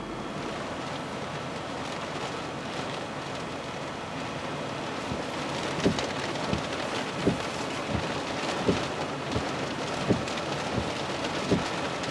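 Heavy tropical-storm rain and wind as a steady wash of noise. From about five seconds in, a regular run of dull thumps comes about every two-thirds of a second.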